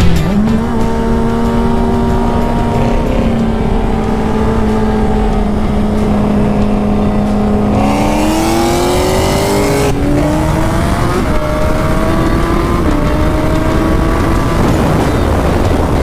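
High-performance vehicle engines running hard at steady high revs, then rising sharply in pitch about eight seconds in as they accelerate, then holding steady again.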